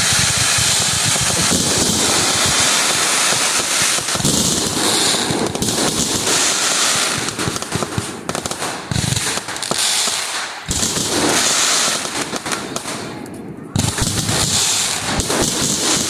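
Fireworks going off in rapid succession: dense crackling and repeated bangs over a steady hiss.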